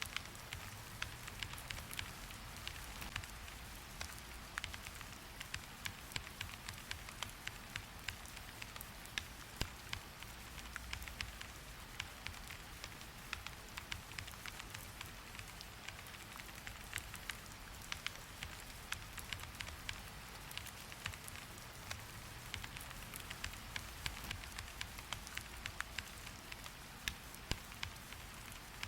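Steady rain hiss with many sharp, irregular clicks of drops striking a surface, several a second, over a low rumble.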